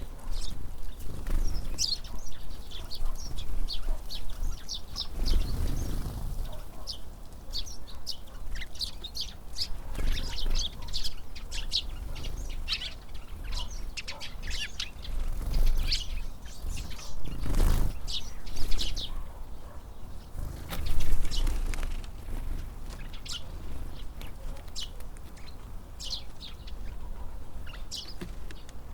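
Tits calling with many short, high chirps throughout, over wind buffeting the microphone in gusts, loudest about two-thirds of the way through.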